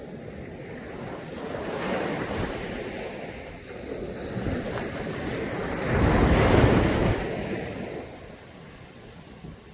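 Caribbean sea waves washing onto a beach, swelling and falling, with the loudest wave breaking about six seconds in.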